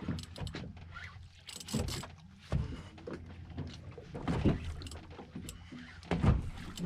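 Irregular knocks and clatter of fishing gear and boat fittings while an amberjack is fought on a jigging rod and spinning reel, over a low steady hum.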